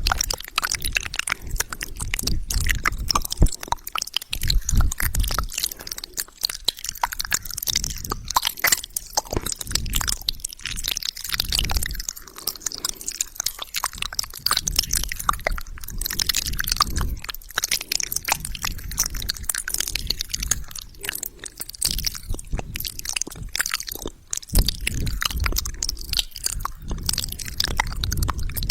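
Close-miked wet mouth sounds: rapid, dense clicks, smacks and squelches of tongue, lips and saliva, with no talking.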